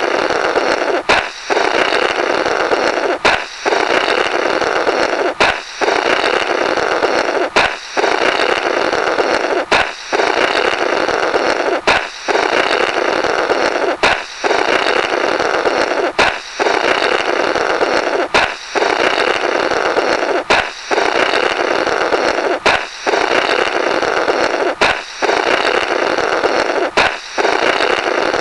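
A balloon pops, then someone blows a rasping "blorrrt" through the burst remnants. The pop and blow repeat about every two seconds, about thirteen times.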